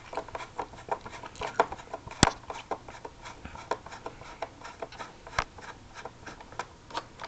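Screwdriver turning long screws out of a cordless vacuum's plastic housing: a run of small, irregular clicks and scrapes, with one sharper click about two seconds in.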